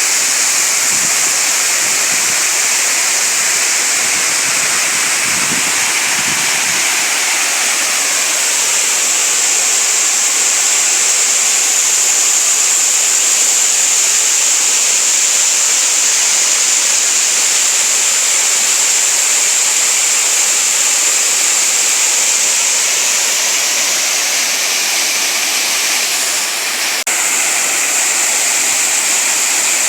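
Water of a streamside waterfall falling and rushing in a steady, loud hiss. Near the end there is a brief dip in the sound and a single sharp click.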